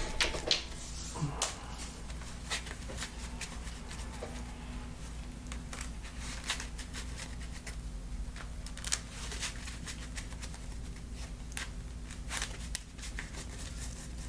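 Trading cards being handled on a tabletop, giving scattered light clicks and taps as cards are picked up, moved and set down, over a steady low hum.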